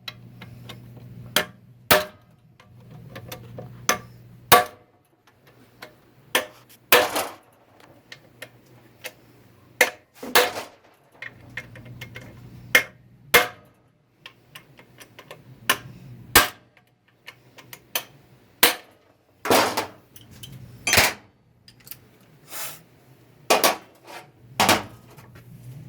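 Sharp metal knocks and clanks from hand tools working on a transmission, such as a hammer tapping and tools striking metal. They come irregularly, about one a second, some louder and ringing longer, over a low steady hum.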